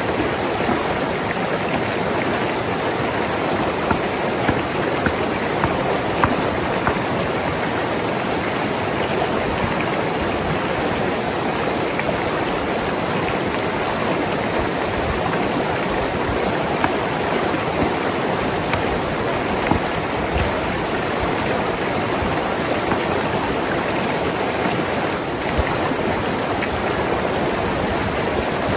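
Mountain river flowing over rocks: a steady rushing and gurgling of water, with a few brief splashes about four to six seconds in.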